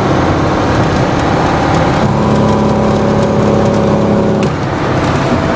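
Mack truck's diesel engine running steadily under load while hauling a backhoe on a trailer. From about two seconds in until near the end, a steadier droning tone comes through, beginning and ending with a sharp click.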